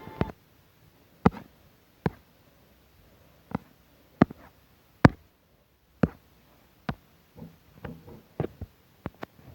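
A series of sharp taps or knocks at uneven intervals, about one a second, with some softer rustling among them near the end.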